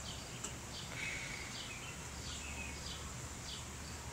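A bird chirping repeatedly, a run of short high downward-sliding notes about every half second, over a steady background hiss.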